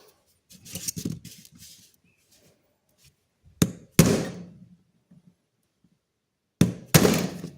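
A hammer strikes a steel center punch to drive a stuck pin out of an old Western folding hunter pocket knife. There are a few light taps and clinks in the first couple of seconds, then two pairs of hard, ringing blows: one pair about halfway through and a louder pair near the end.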